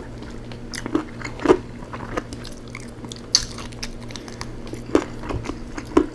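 Close-miked chewing and mouth sounds of a man eating rotisserie chicken with his fingers: irregular sharp smacks and clicks, one or two a second.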